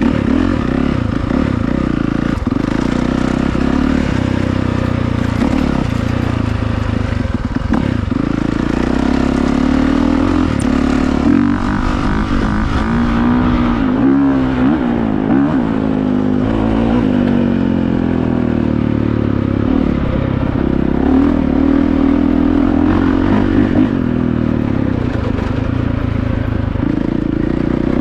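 Honda CRF450R dirt bike's 450 cc single-cylinder four-stroke engine running while riding, its pitch rising and falling as the throttle opens and closes.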